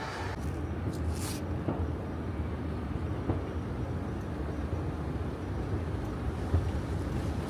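Steady low rumble of a vehicle, heard from inside, with a few faint ticks.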